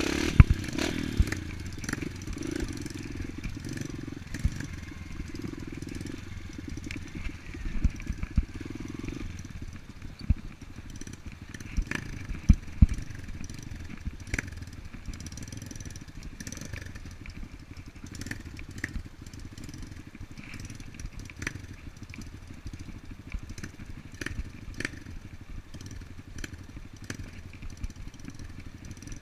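Off-road dirt bike ridden slowly over rough trail: a low steady engine note for the first nine seconds or so, with frequent clattering knocks and rattles from the bike bouncing over the ground throughout.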